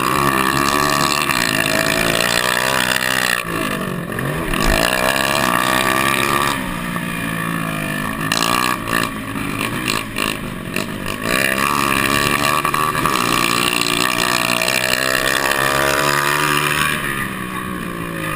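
Several motocross motorcycle engines revving, their pitch rising and falling as the riders work the throttle and shift, with the engine notes overlapping throughout.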